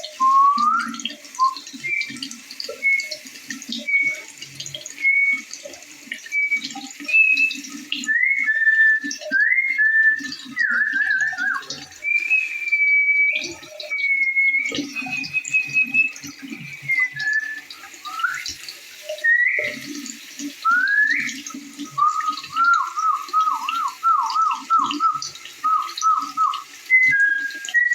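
Birds singing clear whistled notes and slurred upward and downward glides over the babble of a flowing stream, with a quick run of down-slurred notes about three quarters of the way through.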